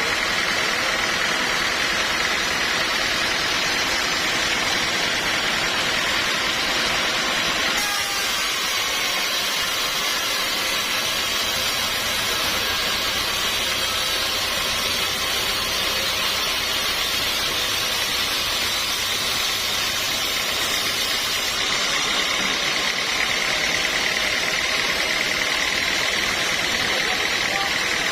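Sawmill machinery running steadily: a dense mechanical noise with a steady high whine, which changes character about eight seconds in and again about two-thirds of the way through.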